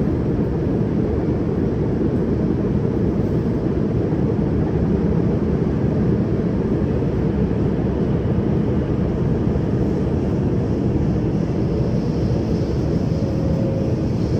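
CRRC Qingdao Sifang Type A metro train running at speed, a steady low rumble of wheels on rail and running gear. A faint high hiss comes in near the end.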